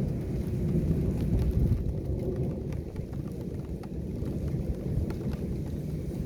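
Heavy rain in a thunderstorm: a steady low rumble with scattered faint drip ticks on top.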